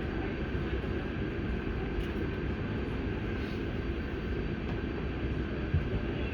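Inside an AM class electric multiple unit train in motion: a steady rumble of wheels on rail with a faint steady high tone, and a single short knock near the end.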